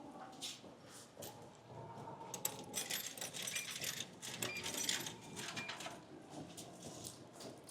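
Light metallic clinking and clicking, busiest in the middle, with three faint short beeps.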